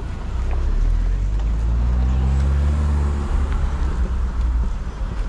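A motor vehicle's engine rumble that swells about half a second in and fades after about three seconds, as of a vehicle passing.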